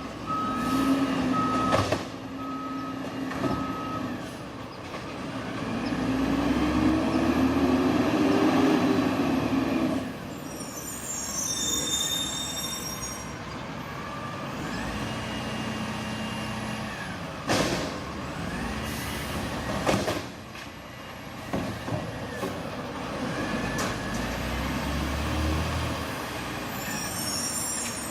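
Garbage truck at work: a backup beeper sounds in the first few seconds, then the engine revs up and falls back, with sharp air-brake hisses.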